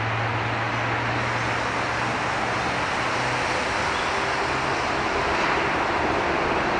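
Steady rushing of flowing river water, with a low steady hum underneath that fades out about three to five seconds in.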